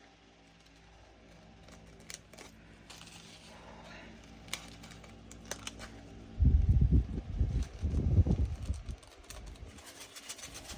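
Small plastic resin diamond-painting drills clicking and rattling as they are handled and sorted, with scattered sharp ticks. Heavy low thumps and rustling from handling break in from about a third of the way through and last for a few seconds.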